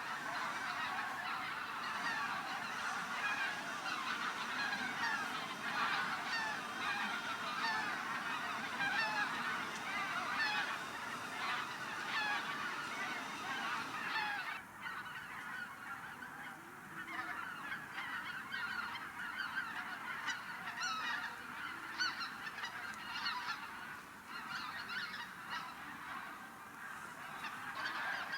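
A large flock of geese honking, many short calls overlapping continuously; the sound changes abruptly about halfway through and carries on a little quieter.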